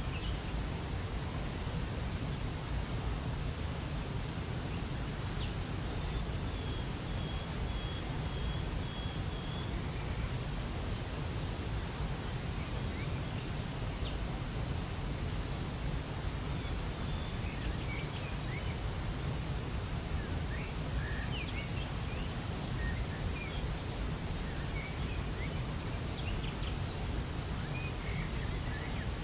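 Waterfall's steady rush of water, with small birds chirping here and there above it, more often in the second half, and one thin high note held for about three seconds.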